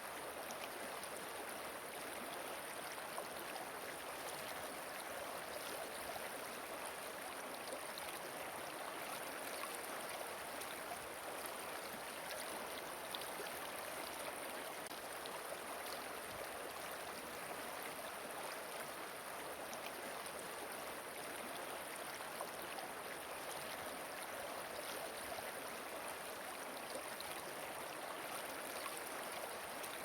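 Flowing river water: a steady, even rush with no pauses or changes.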